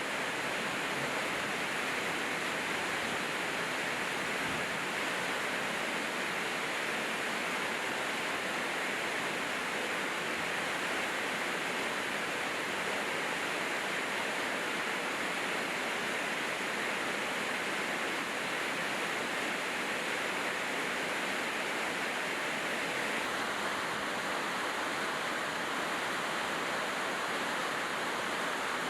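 Steady rainfall, an even hiss of rain pouring down without a break.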